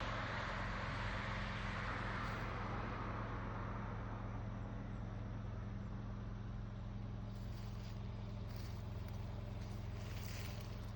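A steady low motor hum under a broad rushing noise that is strongest in the first few seconds and slowly eases off.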